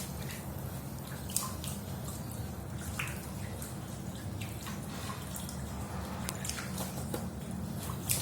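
Water splashing and dripping as a sea eagle is bathed: scattered drips and splashes over a steady low rush of water.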